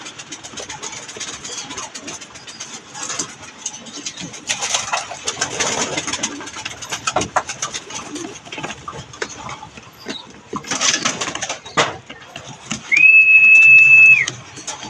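Pigeons cooing and moving about, with irregular bursts of rustling and clicking. Near the end a single steady high tone holds for about a second and a half, louder than anything else.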